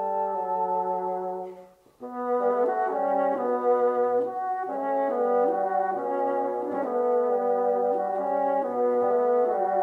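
Classical bassoon piece playing as background music, several lines moving together note by note, cutting out briefly about two seconds in before carrying on.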